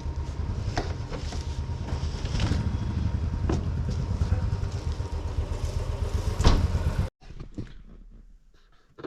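Vehicle noise on the move: a steady low rumble with scattered clicks and one loud knock near the end. It cuts off suddenly to a much quieter background.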